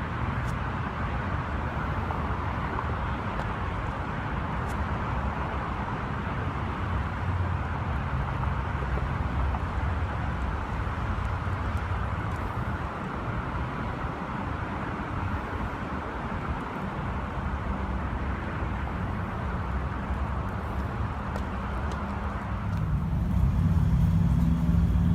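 Steady outdoor road-traffic noise. Near the end it grows louder, with a low engine hum.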